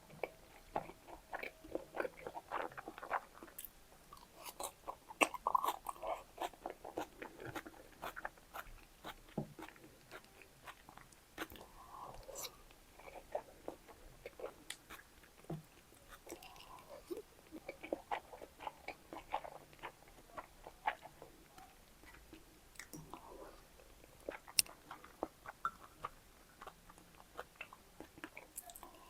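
Close-up eating sounds of someone chewing salmon sushi, with many small sharp mouth clicks throughout.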